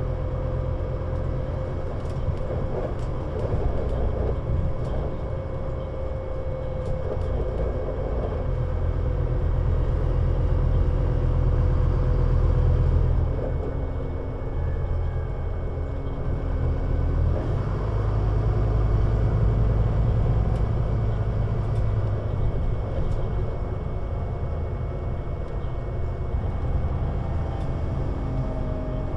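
Scania Citywide LFA articulated bus (CN320UA 6x2/2) running and pulling under load, its deep engine note building over several seconds. About halfway through it drops away suddenly, then builds again.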